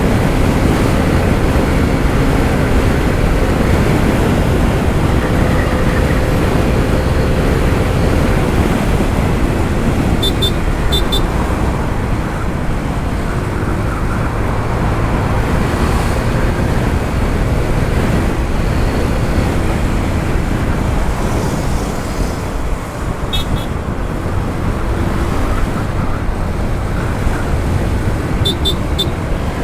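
Steady wind rush on the microphone from riding a Honda ADV 160 scooter, with its engine and road noise underneath. Short high ticks come in pairs a few times.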